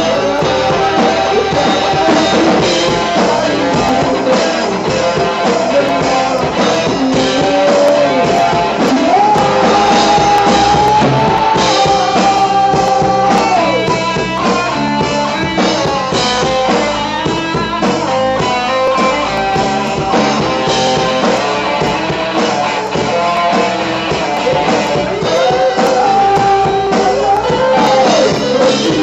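Rock music: a band with guitars and a drum kit, a melodic lead line of held and bending notes on top.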